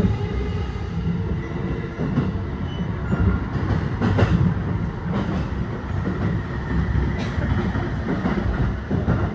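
Electric commuter train running at speed, heard from inside the carriage: a steady rumble of wheels on rail, with a few sharper clacks, around four and seven seconds in.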